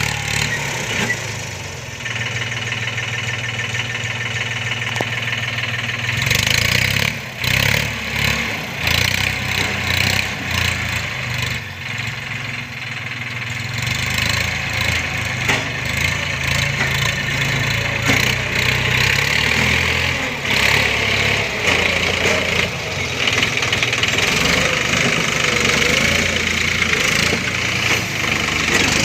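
Swaraj 963 FE tractor's diesel engine running steadily, its pitch and loudness shifting about seven seconds in and wavering after that.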